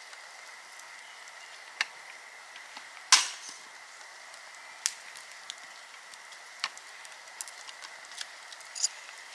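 A few separate sharp clicks and knocks over a faint steady hiss, the loudest one about three seconds in, trailing off briefly.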